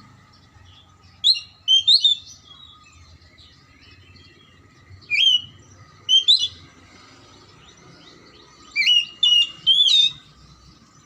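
Oriental magpie-robin singing: three short bursts of clear whistled notes that slide up and down in pitch, a few seconds apart.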